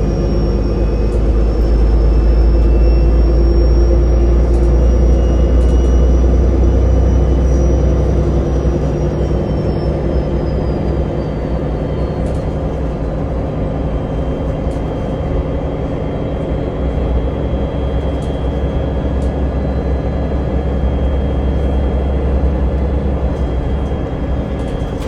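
Interior running noise of a route-42 public-transport vehicle under way: a steady low rumble with a high whine that slides down in pitch about ten seconds in, then holds steady.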